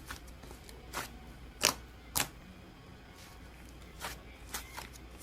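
Slime being squeezed and poked by hand, giving about six separate sharp clicks and pops, the loudest about a second and a half in.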